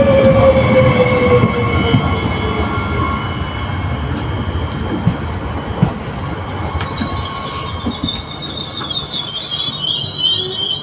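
TER Hauts-de-France passenger train slowing as it arrives at a station: a rumble with a whine falling in pitch, then a loud, high-pitched brake and wheel squeal from about seven seconds in.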